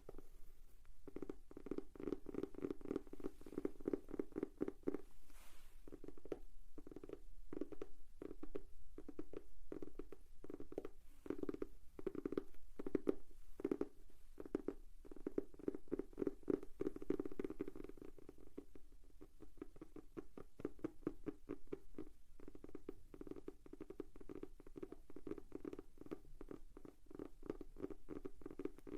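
Fingers tapping rapidly on a notebook: fast runs of many light taps a second, broken by short pauses.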